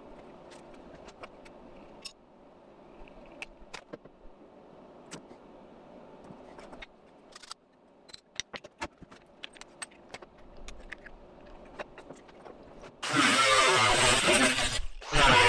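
Light clicks and taps of metal parts being handled. About thirteen seconds in a loud, rough shop-tool noise starts, stops briefly, then starts again in short runs.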